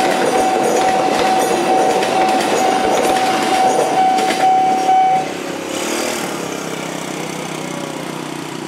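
Carriages of the Dharmawangsa express passenger train rolling past, wheels clacking over the rail joints. A steady high tone runs under it and cuts off about five seconds in, after which the sound fades as the end of the train moves away.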